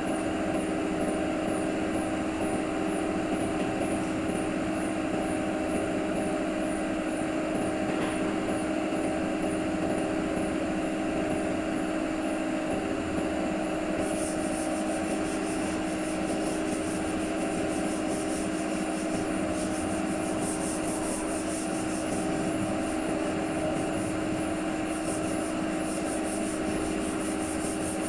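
A motor running steadily with a constant hum, with a faint regular ticking high up; from about halfway, a rough scratchy sound joins in.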